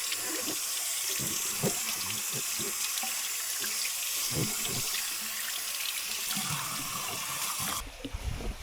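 Kitchen tap running steadily into a sink, with scattered light knocks as something is handled under the stream; the water is shut off suddenly near the end.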